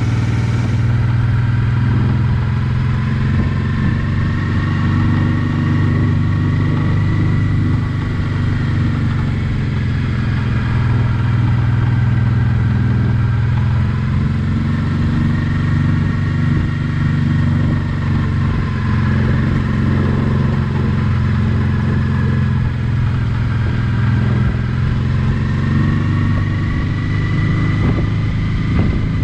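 Honda NT650V Deauville's V-twin engine running steadily on the move, its pitch rising and falling gently with the throttle.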